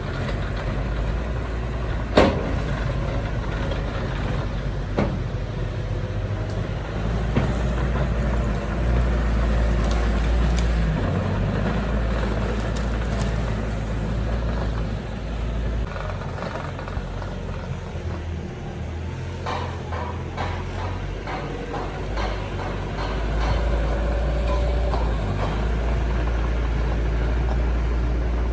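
Heavy diesel earthmoving machinery, a bulldozer and dump trucks, running steadily, the engine note swelling and easing with load. There is a sharp metallic clank about two seconds in, another about five seconds in, and some rattling past the middle.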